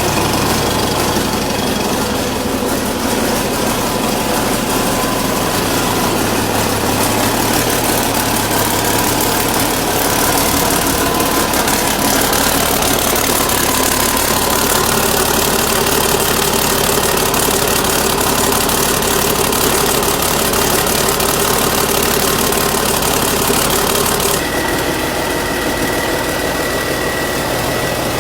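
Cummins Big Cam inline-six diesel engine running steadily. About 24 seconds in the hiss drops and a steady high whistle comes in.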